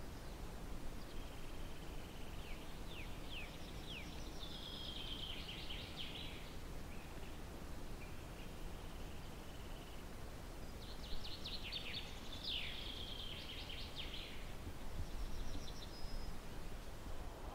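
Songbirds singing short, high phrases of quick downward-sliding notes and brief trills, several times over, above a steady low background noise.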